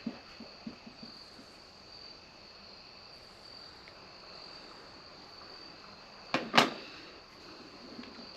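A steady, high insect trill, with a few faint clicks near the start and a single loud, sharp report from a CZ 457 .22 LR bolt-action rifle about six and a half seconds in.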